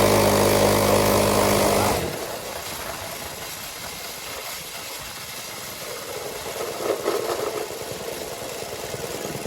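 Motorcycle horn sounding, loud and steady, for about two seconds, then cutting off suddenly, leaving the motorcycle's engine idling quietly.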